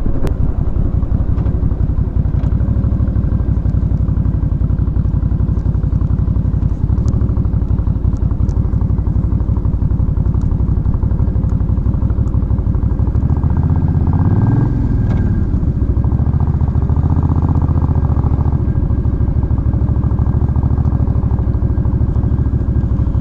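Suzuki Intruder Volusia 800's V-twin engine running steadily under way. The engine pitch briefly rises and falls about two-thirds of the way through.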